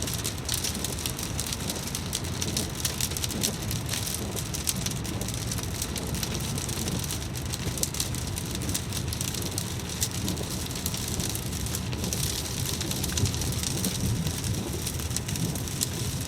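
Steady rain falling: an even hiss of rain, dense with small drop ticks, over a low rumble.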